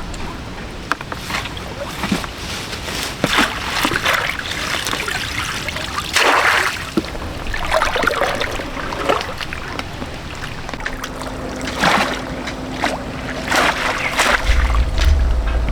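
Water splashing in repeated surges every second or two, with scattered sharp knocks; a low rumble comes in near the end.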